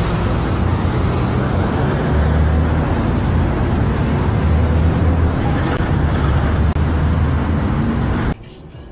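Loud, steady rumble of a vehicle driving, engine and road noise picked up by a dashcam, cutting off abruptly near the end.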